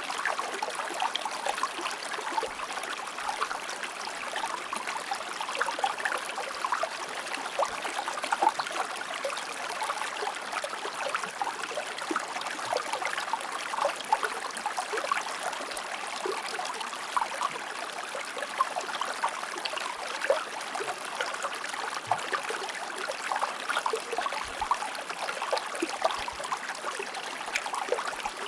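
Shallow stream or river flowing steadily over rocks, a continuous babble of small splashes and trickles.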